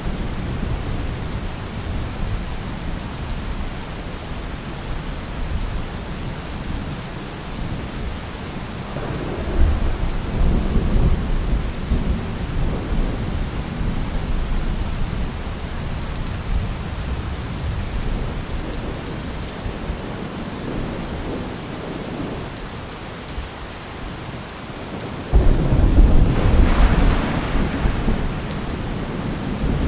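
Steady heavy rain with rolling thunder: a rumble about nine seconds in, and a louder, sudden thunderclap near the end that rolls on for several seconds.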